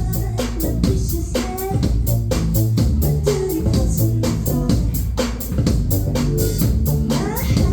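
Live pop band playing an instrumental passage, with a steady drum beat under bass and guitar. A rising pitch glide comes near the end.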